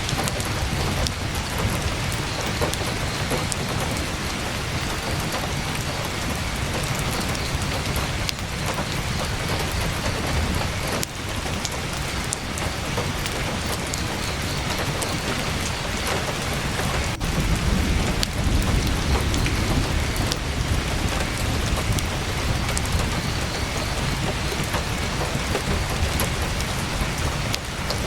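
Heavy rain drumming on tent fabric: a steady, dense hiss of drops with scattered sharper ticks. A deep low rumble swells about two-thirds of the way through.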